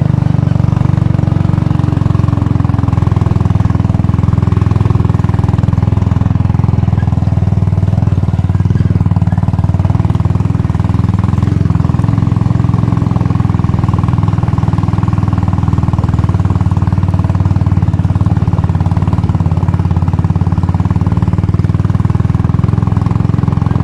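Royal Enfield Bullet's single-cylinder engine running steadily, with a low, even note that holds the same throughout.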